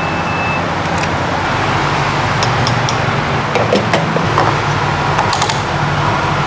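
Car engine idling steadily, with scattered clicks and handling noises and a brief high beep that stops just after the start.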